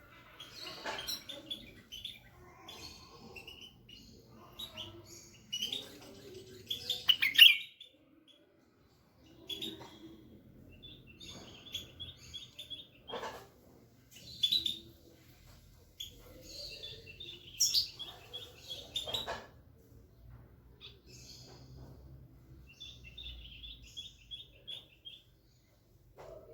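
White-eared bulbul singing a string of varied warbling phrases, with quick runs of repeated high notes. The loudest phrase comes about seven seconds in, and the song breaks off briefly near eight seconds.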